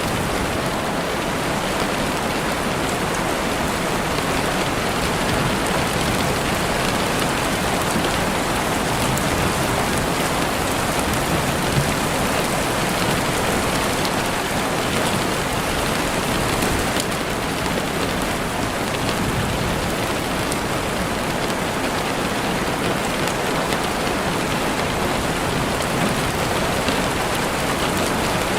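Heavy rain falling steadily on a window, a dense even hiss of drops with scattered small taps on the glass.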